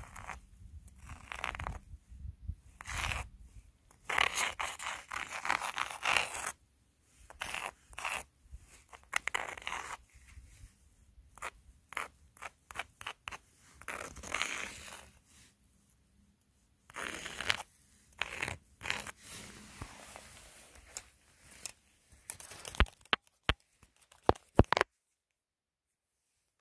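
Footsteps crunching in snow, a series of rough crunches roughly one to two a second, some longer and scraping. A few sharp clicks follow, then the sound cuts off abruptly near the end.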